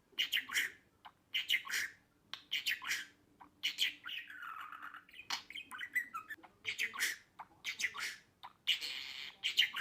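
Budgerigar chirping and chattering in quick bursts, with a longer scratchy warble around the middle and again near the end.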